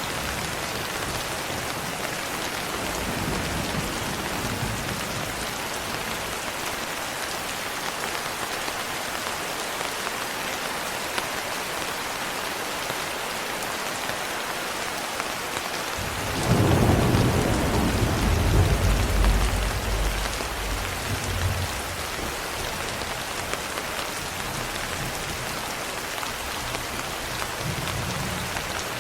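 Steady rain with a roll of thunder that rumbles in suddenly about halfway through and dies away over several seconds.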